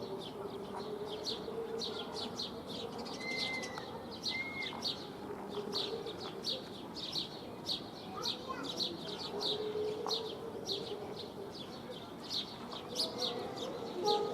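House sparrows chirping: many short, sharp chirps in quick succession, several a second, overlapping as from a group of birds.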